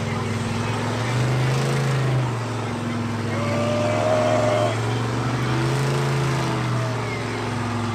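Mega truck engine running in a mud pit, its pitch rising and falling a few times as the throttle is worked.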